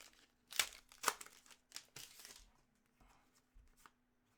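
Trading cards and their plastic packaging being handled: a few short crinkling, rustling strokes in the first half, fainter ones after.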